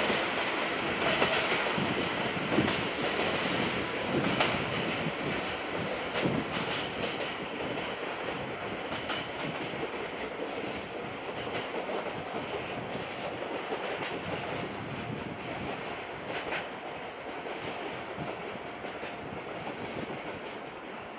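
Container wagons of a freight train rolling away on the rails, wheels clattering in uneven knocks. The sound fades steadily as the train recedes.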